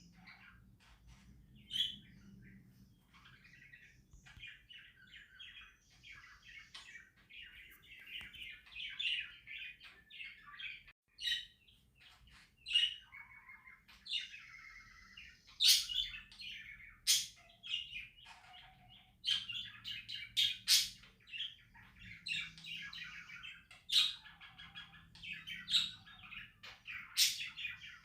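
Budgerigars chattering and warbling, with sharp clicks mixed in, loudest in the second half.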